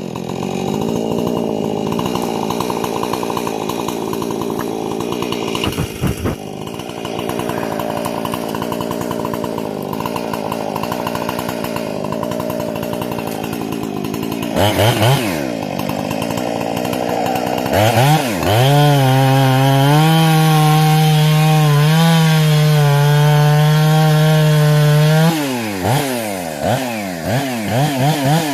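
Husqvarna 460 two-stroke chainsaw, with a modified carburetor and muffler, pulling through a cut under load for about 14 seconds. It is then revved a few times, held at wide-open throttle with no load in a steady high whine, and blipped up and down near the end before climbing back to full revs.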